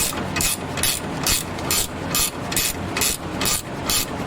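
Pass-through ratchet clicking in steady back-and-forth strokes, about two rasps a second, as it runs a nylock nut down onto a tie rod end stud.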